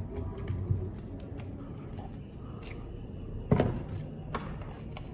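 Plastic parts of a handheld mini vacuum cleaner being handled and fitted together: scattered small clicks and knocks, with one sharper, louder click about three and a half seconds in. The vacuum's motor is not running.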